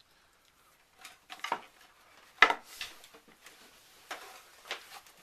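Scattered clinks and knocks of dishes and cutlery during a meal, after a second of quiet; the sharpest knock comes about two and a half seconds in.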